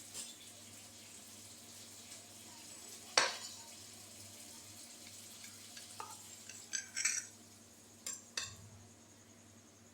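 Kitchenware being handled: one sharp clack about three seconds in, then several lighter clicks and clinks, over a faint steady hum.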